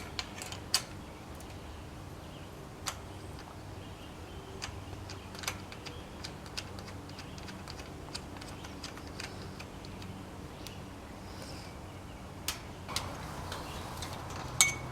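Irregular light metallic clicks and taps as fasteners are fitted by hand onto the panels of a wire pen, left loose for now. A sharper clink comes near the end.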